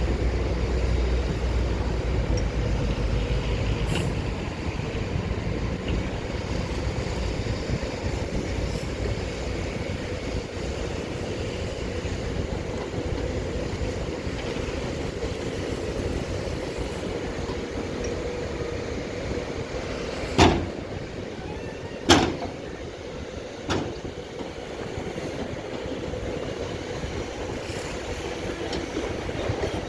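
Heavy diesel machinery of a dump truck and bulldozer moving soil, running steadily with a deep rumble that is heaviest in the first few seconds. About two-thirds of the way in come three loud bangs, roughly a second and a half apart.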